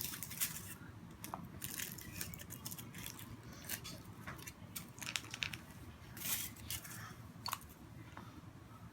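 Foil wrapper crinkling and small crackling handling noises as a chocolate surprise egg is unwrapped and opened by hand, in irregular short bursts.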